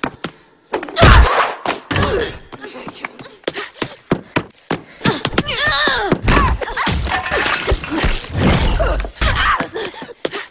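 Staged fight: a rapid run of hits, thuds and body impacts with grunts and cries. The heaviest thud lands about a second in.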